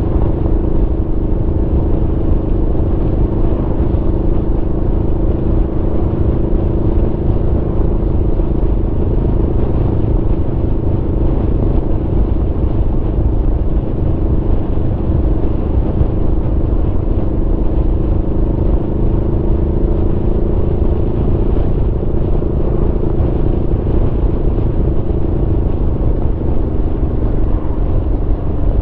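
Aprilia Tuono V4 motorcycle's V4 engine running at a steady cruise under way, its engine note holding almost level, sagging slightly and then rising a little near the end, over a dense low rumble.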